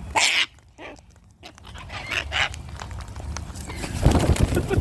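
Cockatoo calls: a short harsh screech about a quarter-second in, then scattered further calls, with a louder noisy stretch near the end.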